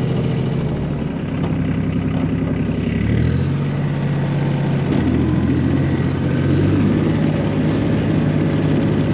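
1985 John Deere 1050 diesel tractor engine running, its pitch stepping up about three seconds in as the revs rise.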